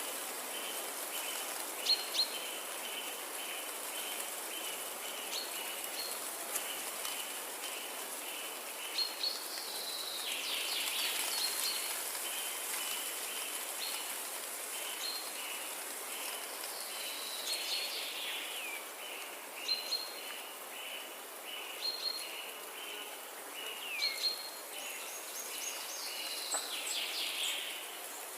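Forest ambience: birds chirping and calling, several calls falling in pitch, over a steady high hiss of insects, with a run of short notes repeating a few times a second through most of the stretch.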